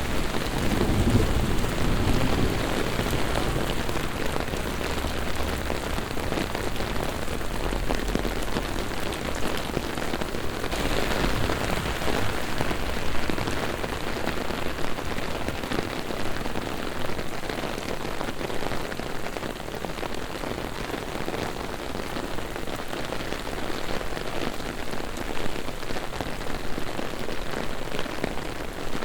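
Heavy rain pouring down on city streets and pavement, with a low rumble of thunder through the first several seconds. The rain hiss grows louder about eleven seconds in.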